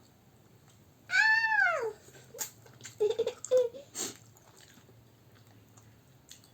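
A small child's high-pitched squeal, one call of just under a second that rises and then falls in pitch, about a second in. Short squeaky vocal sounds and a few light clicks follow around three seconds in.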